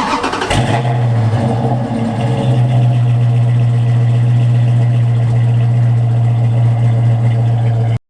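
Performance car engine and exhaust running at a steady, held speed, a loud, even drone. It starts after a couple of sharp clicks and cuts off suddenly near the end.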